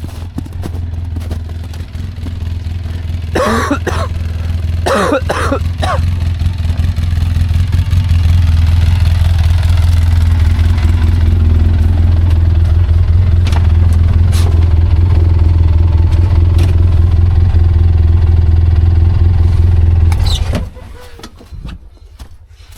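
Side-by-side UTV engine running hard at high, steady revs while the machine is stuck in deep snow. It builds over the first several seconds, holds, then drops away suddenly near the end.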